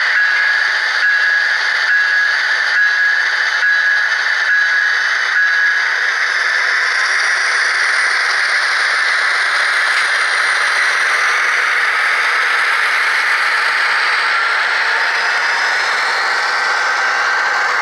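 HO scale model train running along the track: a steady whirring rattle of the small motor and wheels on the rails, with a regular click about once a second over the first six seconds.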